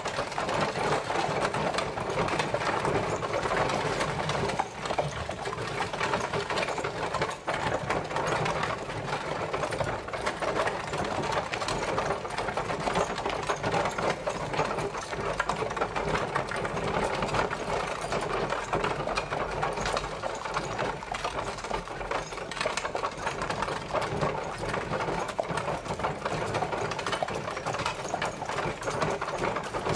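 Horse-drawn carriage on the move: a steady, dense rattle and clatter that goes on without a break.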